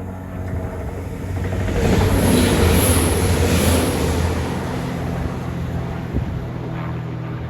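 A train passing close by: a steady low machine hum under a rushing noise that swells to its loudest about two to four seconds in, then eases off.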